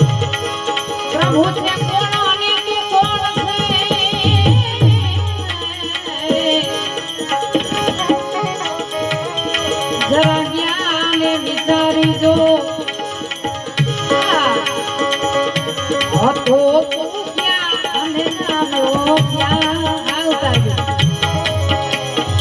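Instrumental interlude of a Gujarati bhajan ensemble: tabla keeping the rhythm under rattling hand percussion, with melodic instruments playing sustained notes and gliding runs.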